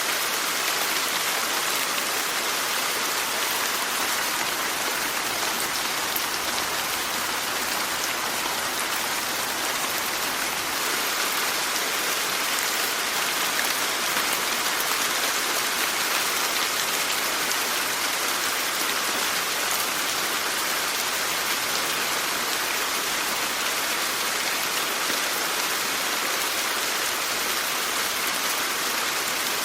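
Steady rainfall, an even hiss of many drops striking a surface, heavier in the higher frequencies, with no change in strength.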